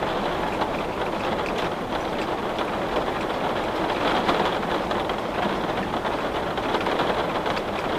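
Steady rain falling, a dense even patter with many small drop ticks.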